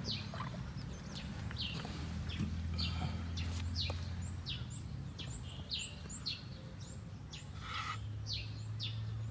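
Birds calling: short falling notes repeated over and over, often in pairs, with fainter high chirps among them.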